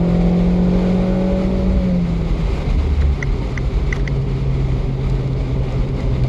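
Abarth 595C's 1.4 turbo four-cylinder with a Record Monza exhaust, cruising at steady throttle. Its note drops to a lower steady pitch about two seconds in, under a constant rush of wind and road noise. A few short high ticks come about three to four seconds in.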